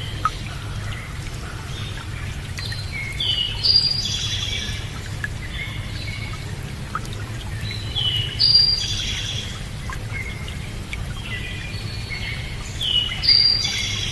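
A songbird singing the same short phrase of several high whistled notes, repeated three times about five seconds apart, over steady running water.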